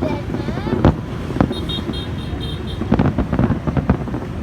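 Crowd of spectators talking over one another, broken by several sharp fireworks bangs, with a short run of high beeps a little way in.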